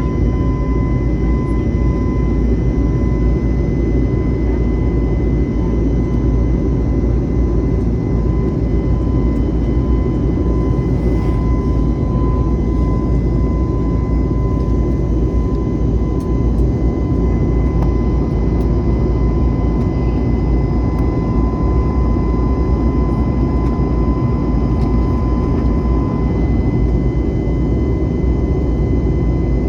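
Jet airliner engines running with a steady heavy rumble and a constant high whine over it, unchanging in level.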